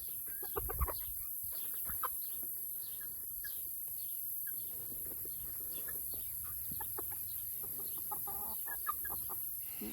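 A flock of backyard chickens clucking softly, with many short scattered calls and a steady faint hiss of insects behind them.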